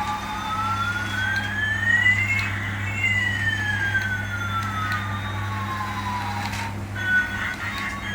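Siren-like electronic wail: a tone that slowly rises and then falls over about six seconds, with a second higher tone gliding the opposite way, over a steady low hum.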